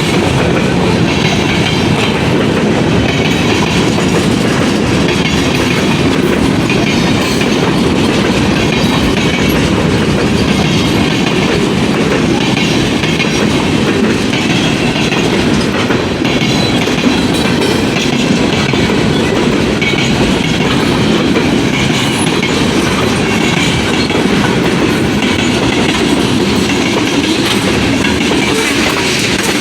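Train cars rolling past close by, a steady loud noise of wheels on rail with faint clicks of wheels crossing rail joints.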